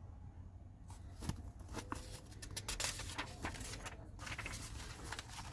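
Paper pages being handled and turned, with quiet, irregular rustling and crinkling that starts about a second in.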